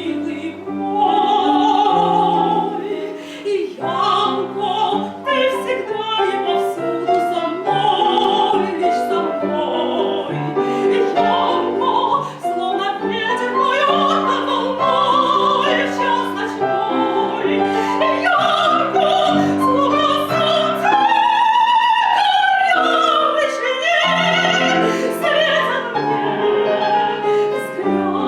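Operetta duet sung in full operatic voice by a soprano and a male singer, with piano accompaniment; the soprano climbs to a high held phrase past the middle.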